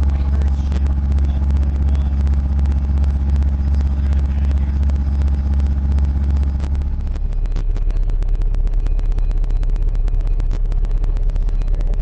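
RE Audio SX 15-inch car subwoofer playing a loud, sustained bass tone that steps down to a lower note about seven seconds in, with fast rattling over it.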